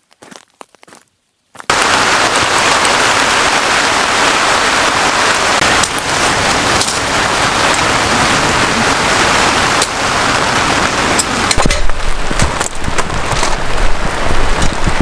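Heavy rain pouring steadily, cutting in suddenly and loud after a second and a half of faint ticking. In the last few seconds gusts of wind add a low rumble.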